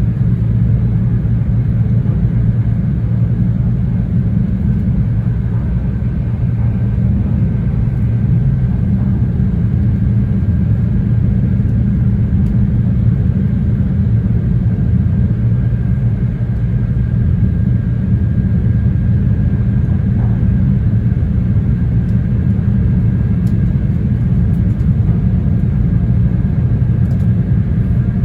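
Running noise of an E2 series Shinkansen heard inside the passenger car at speed: a steady, loud low rumble with a faint steady high whine on top.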